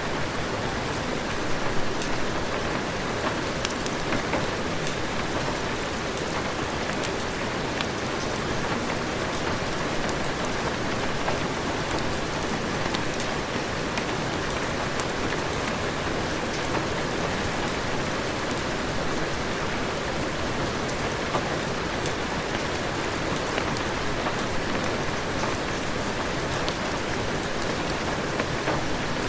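Heavy rain falling steadily, a dense even hiss with scattered faint clicks of individual drops.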